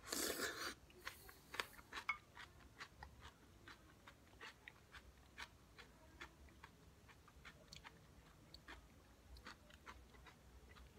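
A person biting into and chewing a mouthful of crunchy Shopska salad of cucumber, tomato, onion and sirene cheese: a loud bite at the start, another near a second and a half in, then a run of small irregular crunches as he chews.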